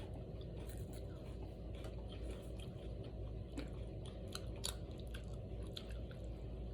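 Two people crunching and chewing bites of a crispy wafer snack: a scatter of small crisp crackles over a steady low hum.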